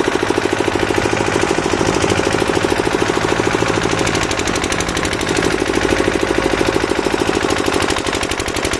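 A machine pounding rapidly and steadily at roughly a dozen beats a second, without a break.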